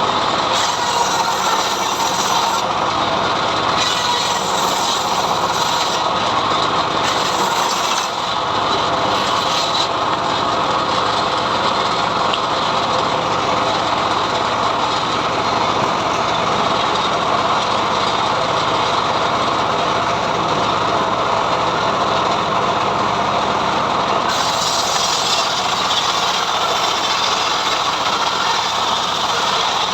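Homemade srekel sawmill running steadily as its saw rips a mahogany log.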